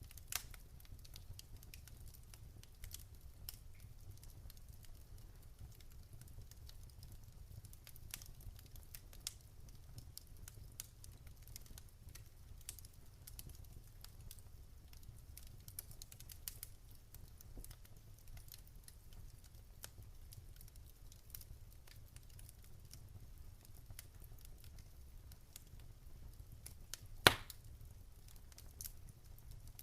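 Fireplace fire crackling: scattered small snaps and pops over a low steady rumble, with one sharp, much louder pop near the end.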